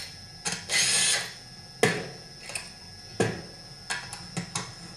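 Socket ratchet clicking in a short run as the bolts on a chainsaw's front oil tank are loosened, followed by a few sharp metal knocks and ticks of tools and parts.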